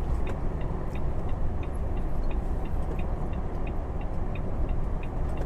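Steady low rumble of a gas-powered truck cruising, heard from inside the cab, with a light regular ticking about three times a second.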